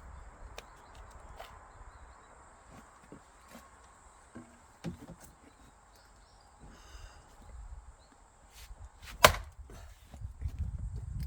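An axe strikes firewood once with a loud, sharp crack about nine seconds in, splitting a log; a lighter knock of wood comes about five seconds in, and rustling handling noise of the wood follows the blow.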